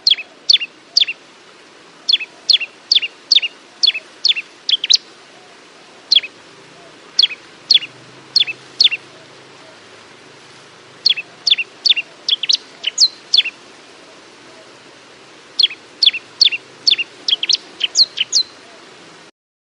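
Bar-winged prinia singing: runs of four to eight sharp, high notes, each sliding steeply downward, at about three notes a second, separated by pauses of one to two seconds. The recording cuts off abruptly near the end.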